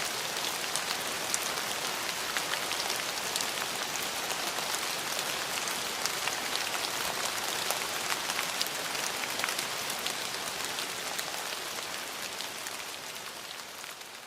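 Steady rain falling on a surface, an even hiss full of small individual drop ticks, starting to fade out near the end.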